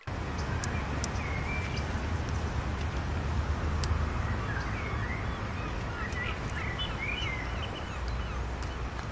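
Outdoor ambience: birds chirping in short scattered calls over a steady low rumbling background noise.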